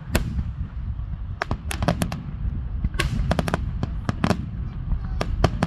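Fireworks finale barrage: sharp bangs of bursting shells in quick clusters of several a second, over a continuous low rumble.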